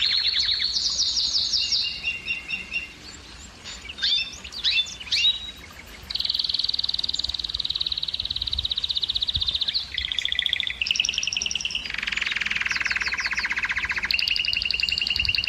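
Domestic canary singing: long, rapid trills of quickly repeated notes that shift to a new pitch every second or two. About two to six seconds in, the song drops to a quieter stretch of a few separate swooping notes before the trills resume.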